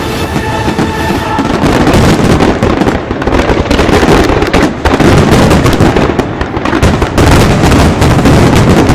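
Fireworks going off in a dense, continuous barrage of loud bangs, packed closely together.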